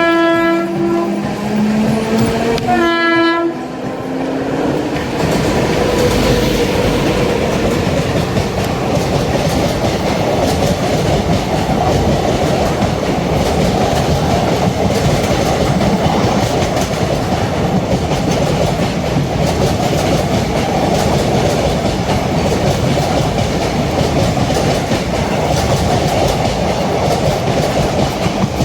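An Indian Railways WAG9 electric locomotive sounds its horn, one blast ending about a second in and a short second blast about three seconds in, then the passenger coaches run past with a steady rumble and wheel clickety-clack.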